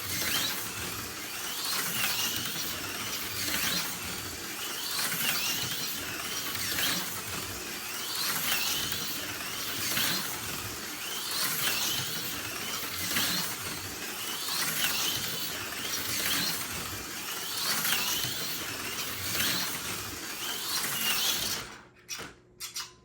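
Tomy Super G Plus HO-scale slot car lapping the track, its motor whine and pickup shoes buzzing and clattering on the rails. The sound swells each time the car passes, about every second and a half. About 22 seconds in it cuts off suddenly as the car comes off the track.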